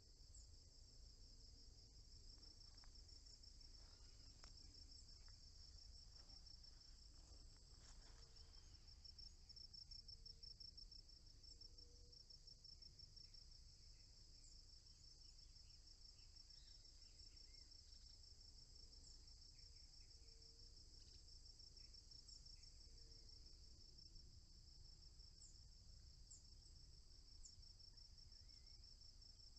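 Faint, steady chorus of crickets: a rapid, continuous pulsing trill. Short low notes come every couple of seconds, and there are a few faint high chirps.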